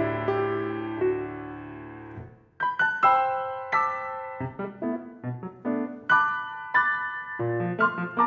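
Piano played four hands: a held chord rings and dies away over about two seconds, a brief pause follows, then a new phrase of separate notes and chords begins.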